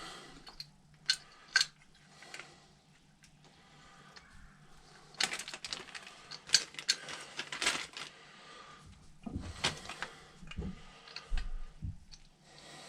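Small metal carburetor parts clicking and clattering as they are handled and fitted by hand: two sharp clicks, then a busy run of rattling clicks, then a few more scattered clicks.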